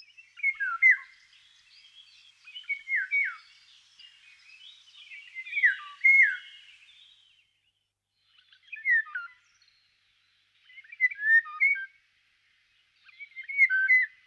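A songbird singing in short phrases of clear, falling notes, about six phrases a couple of seconds apart.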